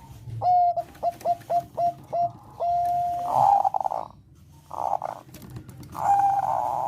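Zebra dove (Thai-bred perkutut bangkok) cooing: a quick run of about seven short clipped notes, a longer held note, then rolling, purring trills, the last one long and still going at the end.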